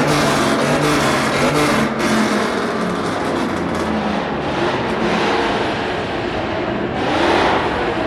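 Car engines running, with a steady engine note that drifts in pitch and a revving car swelling louder about seven seconds in.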